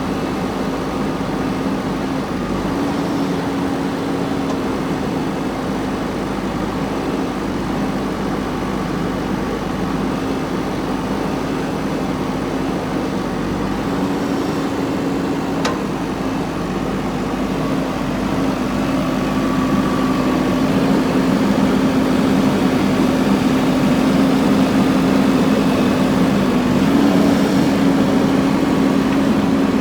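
Diesel engine of a JCB 3DX backhoe loader running steadily, its note stepping up slightly a few times and growing louder about two-thirds of the way through. A single sharp click about halfway.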